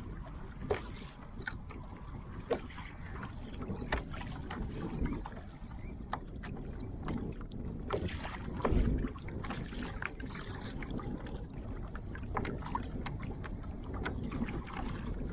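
Kayak on the water: water splashing and sloshing along the hull with many small knocks and clicks, and one heavier thump about nine seconds in.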